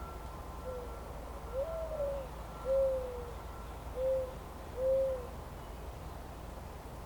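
A bird calling a phrase of five low, hollow hooting notes. A faint first note is followed by a longer note that rises and falls, then a single note, then two short notes.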